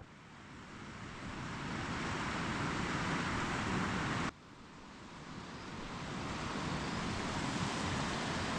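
Steady rushing noise that swells over the first few seconds, breaks off suddenly a little after four seconds in, then builds up again.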